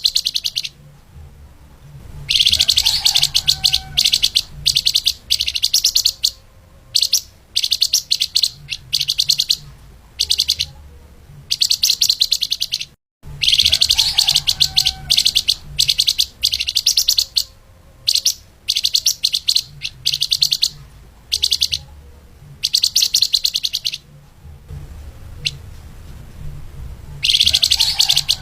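Flamboyan (lemahan) songbird singing fast, dense bursts of high, rapid chattering notes, phrase after phrase with short pauses between. The sound cuts out completely for a moment about halfway through.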